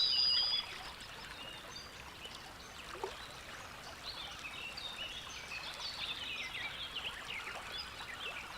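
Outdoor bird chorus of many short high chirps and calls over a soft hiss, opening with a brief high whistle.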